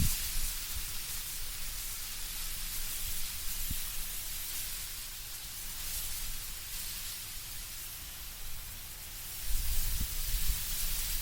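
Wind moving through autumn trees, the leaves rustling in a steady hiss. A low gust rumble swells back in near the end.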